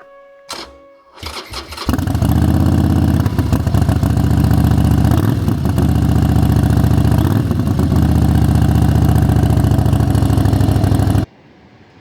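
Harley-Davidson motorcycle's V-twin engine being started: a click and a brief crank, then it catches about two seconds in and runs steadily and loudly, until the sound cuts off abruptly near the end.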